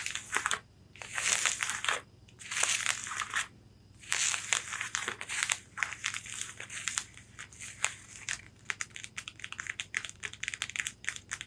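Long fingernails scratching across corset fabric in a few separate strokes, then tapping on it rapidly and densely through the second half.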